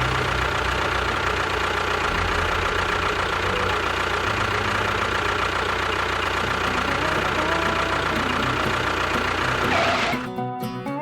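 An engine running steadily, then cutting off about ten seconds in.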